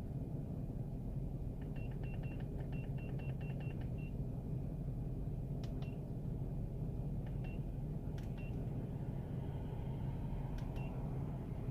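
2001 Ford Explorer's 5.0L V8 idling steadily, with short electronic beeps from a handheld scan tool's keypad as its buttons are pressed: a quick run of about eight beeps around two seconds in, then a few single beeps and clicks later.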